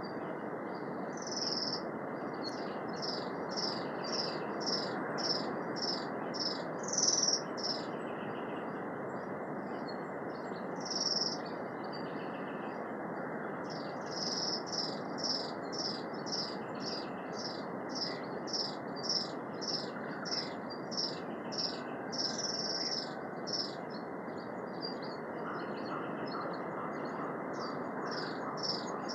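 A bird calling in a forest, repeating short high chirps at about two a second in long runs with pauses, with a few lower notes between them, over a steady rushing background noise.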